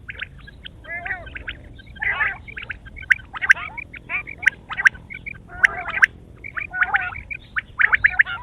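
Quail calling, a rapid jumble of short, overlapping chirping and chattering notes that keeps on without a break.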